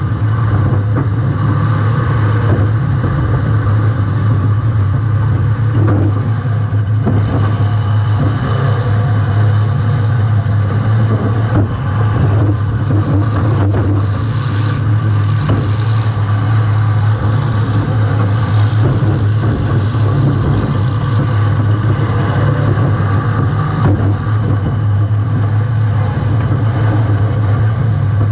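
Compact demolition derby car's engine running hard, heard from a GoPro mounted at the rear of the car, with a couple of short knocks about halfway through.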